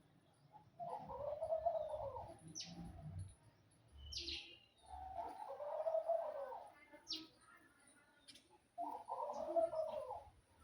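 A dove cooing three times, each a low, rounded call of about a second and a half, with short high chirps from another bird in between.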